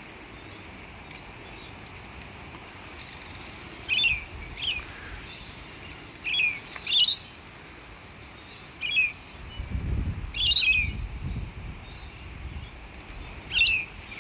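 Short, sharp bird chirps, about seven of them, some in quick pairs, spaced out over several seconds. Wind buffets the microphone with a low rumble about ten seconds in.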